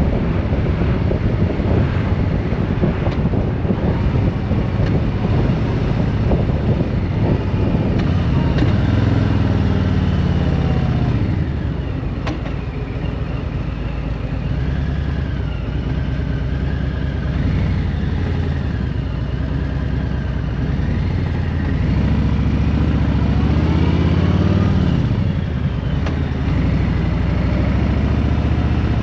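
Motorcycle engine and wind noise while riding. The engine note falls about ten seconds in, holds steady, then climbs and drops again near the end.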